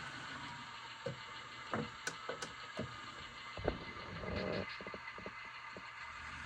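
Athearn HO-scale GP38-2 model locomotive running on powered track, its sound decoder playing a steady diesel sound, with irregular clanking knocks from the drive between about one and four seconds in. The clanking and growling are the fault being chased, a drive or gear problem in the locomotive.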